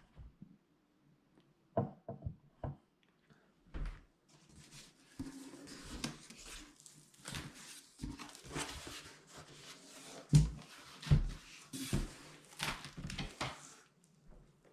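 Packaging being handled: a few sharp knocks, then about nine seconds of rustling with scattered thumps, typical of cardboard and plastic wrapping being pulled off.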